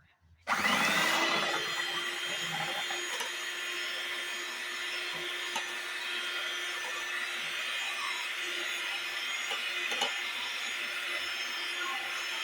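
Electric mixer motor switched on, spinning up quickly and then running at a steady speed while mixing the icing.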